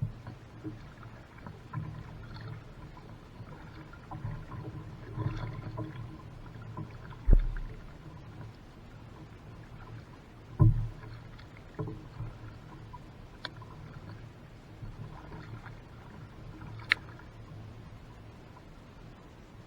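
A small boat on the water, with low rumbling and handling noises and several sharp knocks against the hull, the loudest two about seven and ten and a half seconds in.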